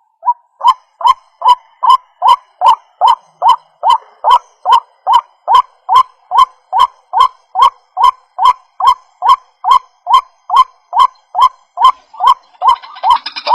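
White-breasted waterhen (ruak-ruak) calling: one short call repeated monotonously at an even pace, about two and a half calls a second. Near the end a denser, busier chatter joins in over it.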